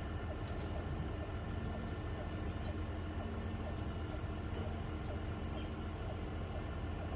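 Insect trilling steadily at a high pitch, like a cricket, over a steady low hum, with a few faint short chirps.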